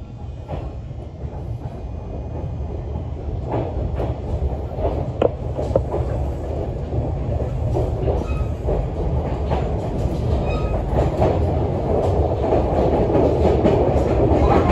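Yoro Railway 600-series electric train heard from inside the car, running along the line with wheels clicking and knocking over rail joints. The running noise grows steadily louder.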